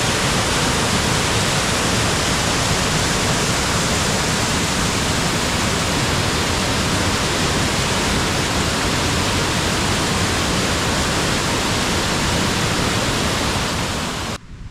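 Steady, loud rush of fast-flowing water, a burn or waterfall running full after heavy overnight rain. It cuts off abruptly near the end.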